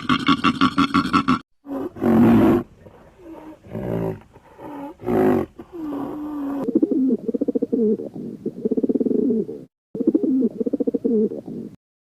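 Big cat roaring and growling in a string of separate calls, then a longer rough, fast-pulsing growl; the calls are broken by sudden cuts.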